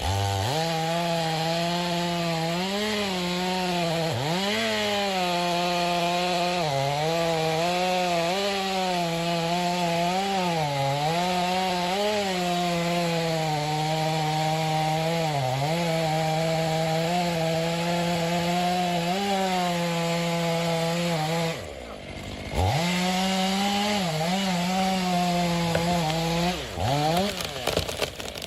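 Chainsaw at full throttle cutting into wood. Its high engine note sags again and again as the chain bites and then recovers. About three-quarters of the way through it drops off for a moment and revs back up, with a few quick dips near the end.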